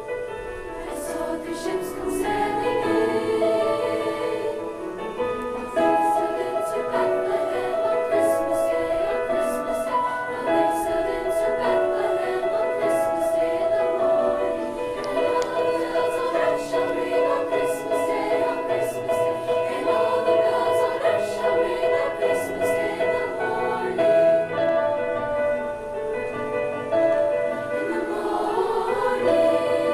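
A school choir singing in several-part harmony, holding long chords.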